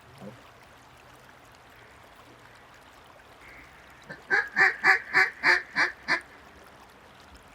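Mallard duck call blown by a hunter: a run of about eight loud, evenly spaced quacks, about four a second, starting about four seconds in and tapering slightly. It is a calling sequence aimed at ducks circling overhead.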